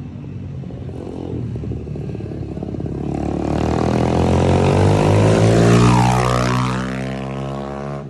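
150cc dirt bike with a 24mm Nibbi racing carburetor and performance exhaust approaching and riding past. The engine note grows louder to a peak about six seconds in, then drops in pitch as it moves away.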